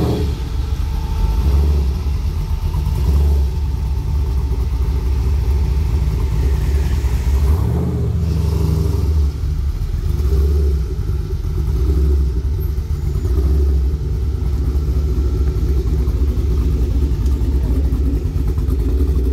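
Car engine running with a steady low rumble that swells and eases.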